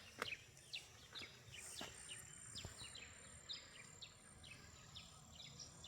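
Faint outdoor ambience: scattered short, downward-sweeping bird chirps over a steady, high, thin insect drone with a faint pulsing note above it.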